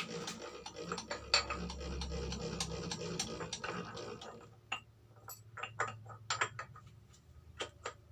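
Cylinder boring machine running steadily with a scatter of clicks, then switched off about four and a half seconds in, followed by a series of separate sharp clicks and taps.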